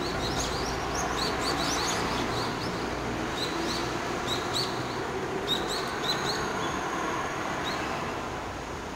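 Small birds chirping in quick clusters of short high calls, over a steady rumble of road traffic.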